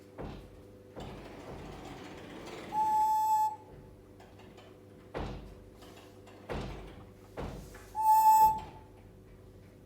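African grey parrot whistling two long, level notes about five seconds apart, with a few soft knocks in between.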